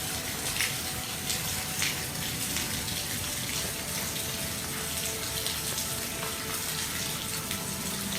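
Steady rain falling, an even hiss with a few sharper, louder drops in the first two seconds.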